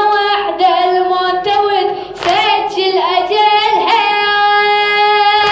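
A solo voice singing a latmiya lament melody, wavering and sliding between notes, then holding one long steady note near the end.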